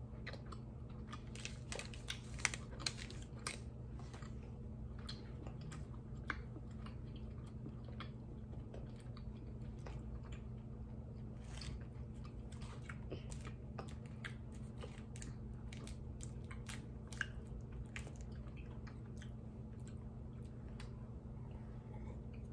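Close-up chewing of candy, with scattered sharp clicks and crunches from mouth and wrapper, the loudest a few seconds in. A steady low hum runs underneath.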